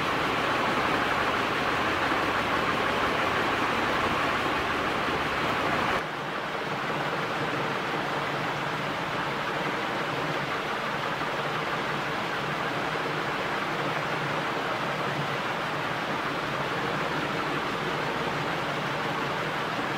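Roshan CP56-1 ceiling fan with three metal blades running at high speed, a steady loud rush of air from the blades. About six seconds in the sound drops suddenly to a quieter, steady whoosh with a faint motor hum.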